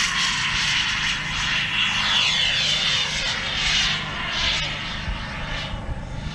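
Miniature jet turbine engine of a radio-control model fighter jet whining as the plane flies past overhead, its pitch sliding down and the sound easing off after about four seconds.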